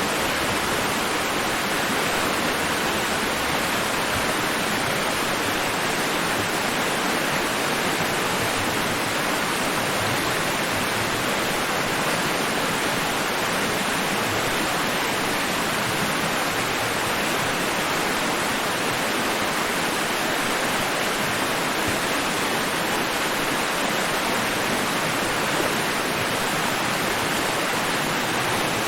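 Steady white noise: an even, unbroken rushing hiss that holds the same level throughout, without the rise and fall of breaking waves.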